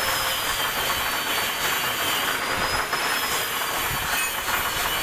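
Milling machine cutting the teeth of a sprocket: steady cutting noise with a high whine that wavers slightly in pitch.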